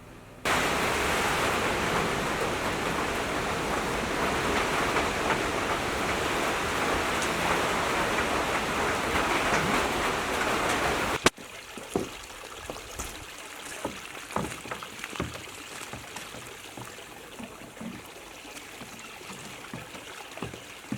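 Water rushing in a loud, steady hiss that cuts off suddenly about eleven seconds in. After that comes a much quieter sound of water trickling and splashing with irregular drips, the flow of a piped freshwater spring.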